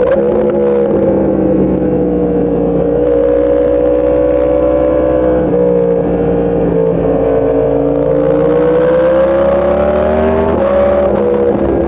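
Motorcycle engine running hard at a fairly steady speed, its pitch slowly dipping and climbing again, with abrupt steps in pitch about halfway through and again near the end, like gear changes.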